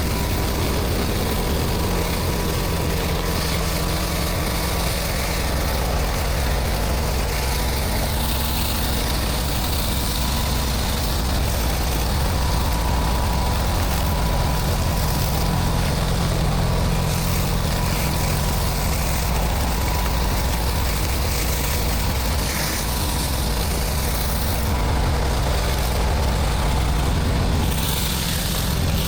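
Pressure washer running steadily: an engine drone under a constant hiss.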